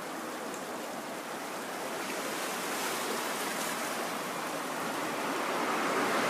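Steady wash of surf on a beach, a continuous hiss without separate crashes that slowly grows louder.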